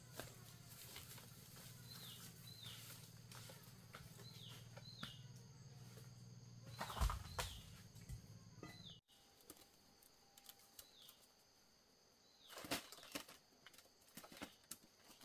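Faint bird chirps: short downward-slurred notes, often in pairs, repeated every second or two. A low hum underneath stops abruptly partway through, with a thump shortly before it and scattered light knocks later.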